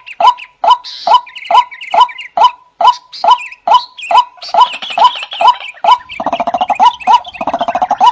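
Male white-breasted waterhen calling: a loud, repeated 'wak' note a little more than twice a second, with thin higher squeaks in places. About six seconds in, a rapid bubbling chatter joins the calls.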